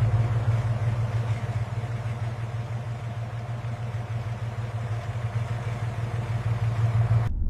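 A car engine idling steadily with a deep, even hum, cutting off abruptly near the end.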